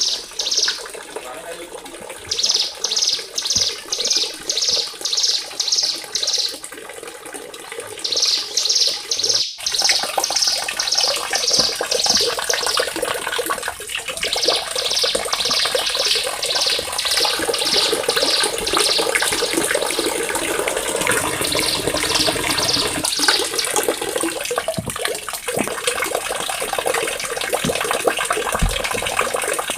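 A small songbird repeating one sharp high note in fast runs of about two to three notes a second, with short pauses between runs, as in masteran tracks. From about a third of the way in, a steady rushing hiss like running water lies under the song.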